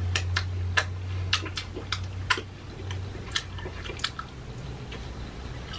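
Close-up wet chewing and lip-smacking of a mouthful of glazed rib meat, with sharp irregular clicks from the mouth roughly every half second.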